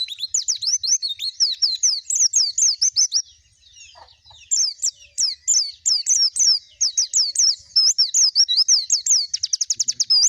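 A pleci (white-eye) singing hard: a fast run of high, down-slurred whistled notes, about five a second. The song breaks off for about a second a little after three seconds in, then resumes and speeds into a quick trill near the end.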